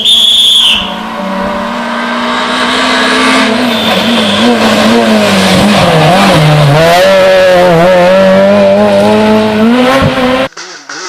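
Rally car engine at full race load, its note wavering up and down as the throttle comes on and off. A short high-pitched squeal is heard at the very start, and the sound cuts off abruptly near the end.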